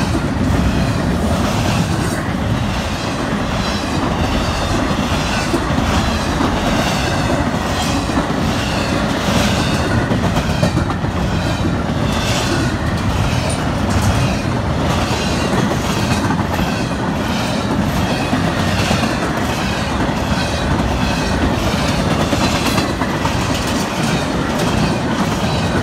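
Freight train cars rolling past close by: a steady rumble with the wheels clicking in a regular, repeating rhythm.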